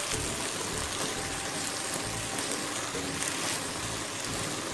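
Chopped green peppers frying in oil in a steel pot, a steady sizzling hiss, while a wooden spoon stirs them.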